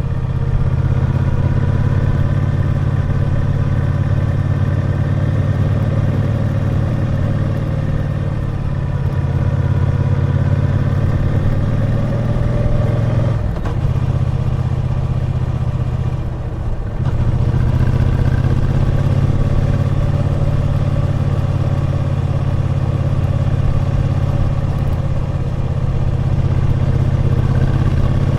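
Triumph Bonneville T120's 1200 cc parallel-twin engine running steadily under way on the road. Around the middle the engine note drops briefly twice, then picks up again.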